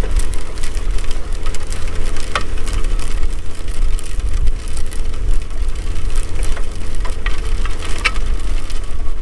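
Tractor engine running steadily while pulling a disk through muddy soybean stubble, with a few scattered sharp clicks and rattles.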